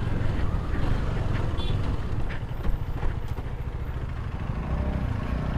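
KTM Duke 250's single-cylinder engine running at low revs as the motorcycle crawls over a muddy, slippery track, with wind and rough-ground noise. A steadier, more even engine note comes in near the end.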